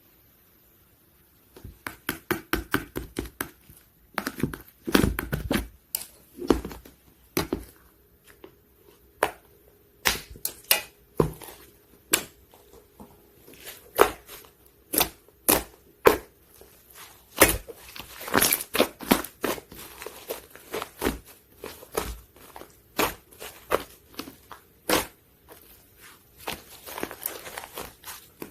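Sticky slime being squished, poked and stretched by hand, giving a dense, irregular run of wet clicks and pops that starts about a second and a half in.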